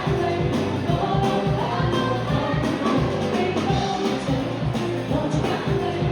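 Live band playing a song with a singer, drums keeping a steady beat.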